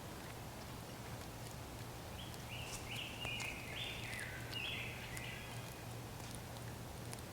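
A bird calling: a quick run of about eight short, clear notes stepping up and down in pitch, lasting about three seconds in the middle, over a faint steady low hum.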